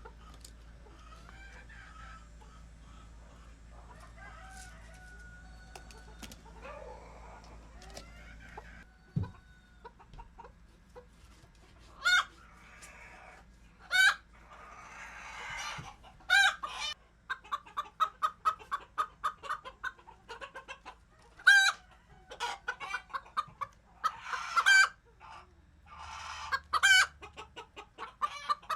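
Chickens in a coop: faint clucking at first, then from about twelve seconds in loud cackling, with fast runs of clucks building into loud calls and harsh squawks.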